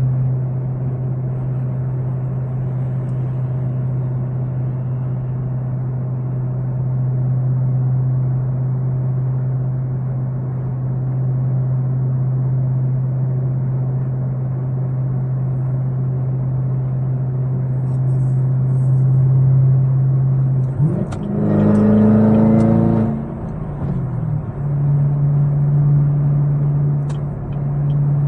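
Chevrolet Camaro ZL1's supercharged V8 running with a steady low drone. About three-quarters of the way through it revs up briefly, rising in pitch, then drops back to the steady drone.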